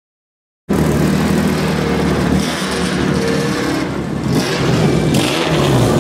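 Several small racing cars' engines running and revving as they pull away slowly, cutting in abruptly under a second in after silence.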